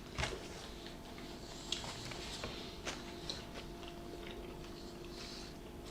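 Faint chewing and small wet mouth clicks of people eating sub sandwiches, with a faint steady hum in the background.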